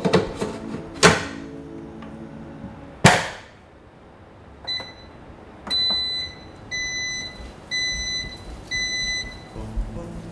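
A few sharp knocks, then five electronic appliance beeps, one about every second, each a steady high tone.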